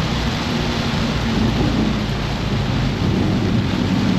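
Loud, steady rush of heavy rain, road spray and wind through an open car window, with the BMW F82 M4's twin-turbo inline-six running underneath. The car is braking on a flooded track while its semi-slick tires slip.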